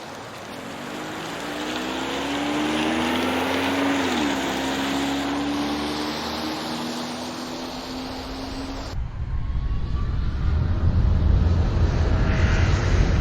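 Jet airliner engines at takeoff power: a steady roar carrying a droning tone that bends briefly about four seconds in. Near the nine-second mark the sound changes abruptly to a deep rumble.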